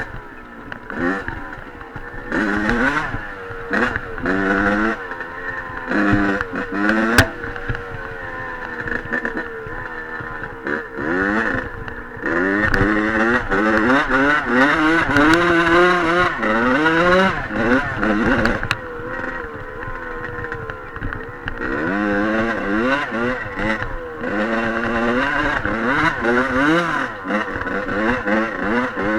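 Dirt bike engine being ridden hard, revving up and dropping back over and over as the rider works the throttle and gears.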